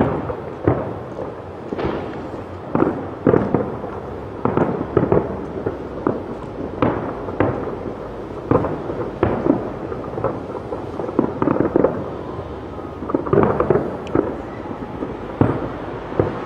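Fireworks going off: a rapid, irregular series of bangs with echo trailing each one, coming in denser volleys a few seconds in and again near the end.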